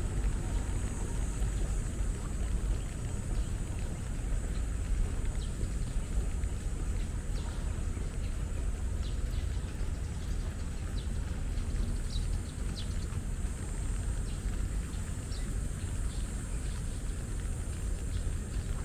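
City park ambience: a steady low rumble of distant urban traffic under a constant high-pitched hiss, with scattered short high chirps through the middle.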